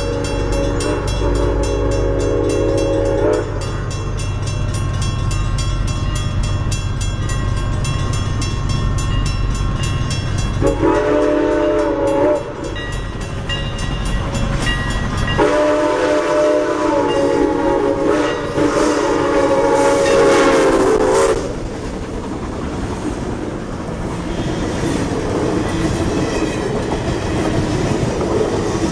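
A locomotive's multi-note horn or whistle sounds a long blast, then a short one, then a long one as a passenger train approaches. After that the passenger cars roll past close by, their wheels clicking over the rail joints.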